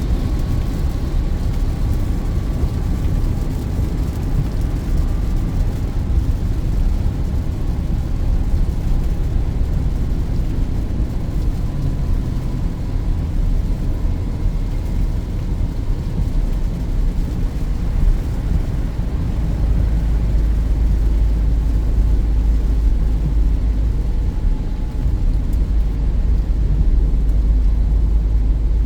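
Inside the cabin of a Peugeot 2008 driving on a wet road: a steady low rumble of engine and tyres, heavier about two-thirds of the way in, with no break or sudden event.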